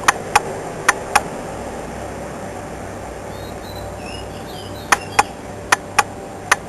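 Faint chirps from small birds over a steady hum of city traffic, broken by sharp clicks: four near the start and five more in the last two seconds.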